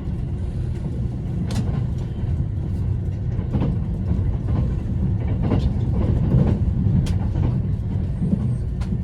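Running noise of an E353 series limited express train at speed, heard from on board: a steady low rumble with scattered sharp clicks.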